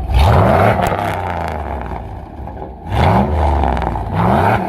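Truck engine revving hard three times, its pitch climbing quickly each time and then holding loud, with a lull in the middle.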